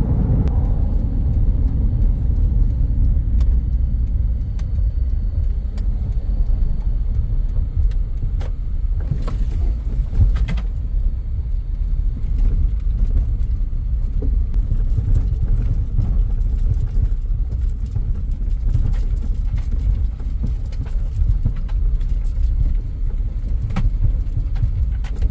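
Car driving on a highway, heard from inside the cabin: a steady low rumble of road and engine noise, with a few brief knocks about nine to ten seconds in.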